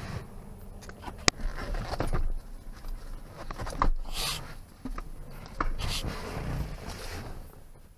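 Car battery being worked out of its tray under a seat: scraping and rustling with scattered sharp knocks, one loud knock about a second in.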